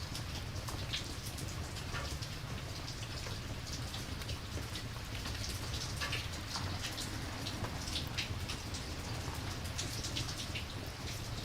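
Steady rain, a continuous hiss with a low rumble underneath and many scattered sharp ticks of drops, played as an ambience track.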